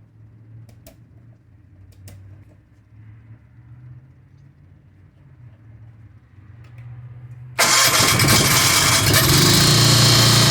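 Generac QuietPact 40 RV generator starting abruptly near the end on its automatic choke, without being choked, then running loudly and steadily. Before it catches there is only a faint low hum with a few light clicks.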